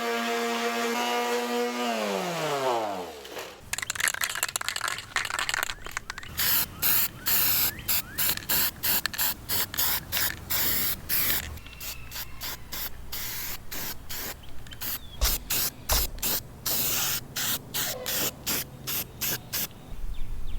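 A small electric motor whine that winds down to a stop about three seconds in, followed by many short spurts of hissing spray, some quick and some longer, with brief gaps between them.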